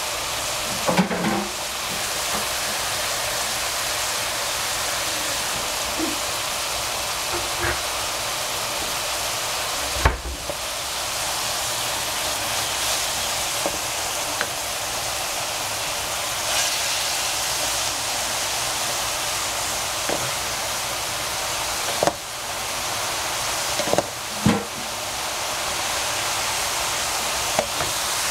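Beans sizzling steadily as they fry in a hot pan, with a few sharp knocks: about a second in, around ten seconds, and twice in the last third.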